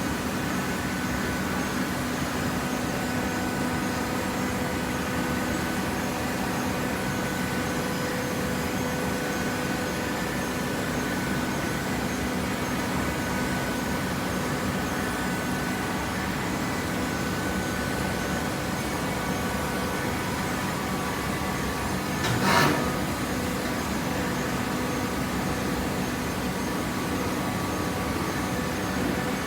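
Hydraulic baler running: a steady machine hum with several steady tones, broken once by a short loud knock about two-thirds of the way through.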